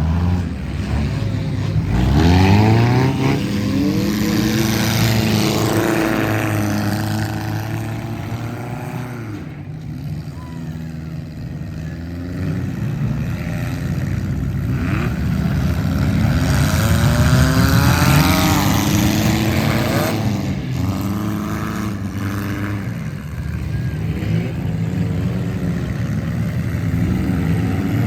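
Several demolition derby cars' engines revving hard and easing off again and again, their pitches rising and falling over one another.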